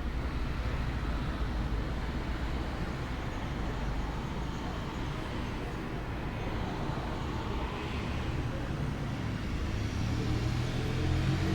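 Steady outdoor ambient noise: a low rumble with a hiss above it, growing louder near the end as a low hum comes in.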